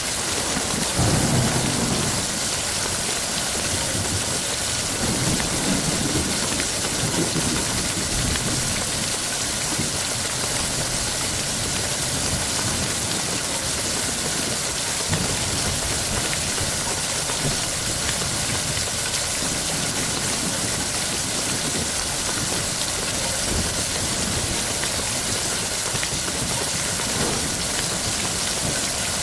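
Heavy rain falling steadily, with low rolls of thunder rumbling at intervals, the strongest about a second in and another around five to seven seconds.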